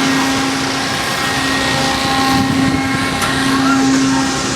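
Carnival ride machinery running as the ride gets going: a loud, steady mechanical hum under a wash of noise.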